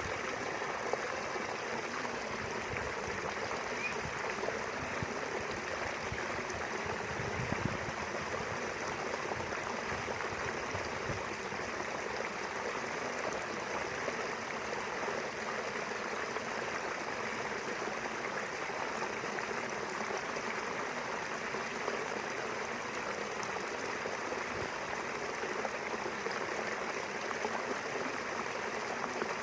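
Small river flowing steadily between rice fields, an even rushing and gurgling of running water.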